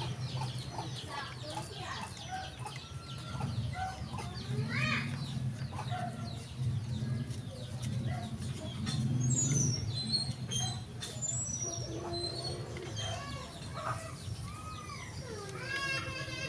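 Birds calling on and off, with short chirps and clucks, over a steady low hum.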